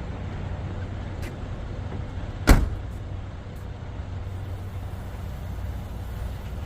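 Car engine running with a steady low hum, and one sharp, loud thump about two and a half seconds in.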